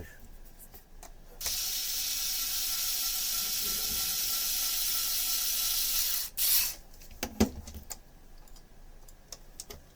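A steady hiss with a faint whine, lasting about five seconds, then a short burst of hiss and a single knock. Light clicks run before and after.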